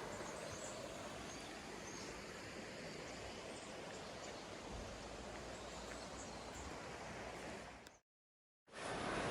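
Steady rush of a river flowing past, with a few faint high bird chirps. The sound drops out for a moment near the end, then a louder rush of water returns.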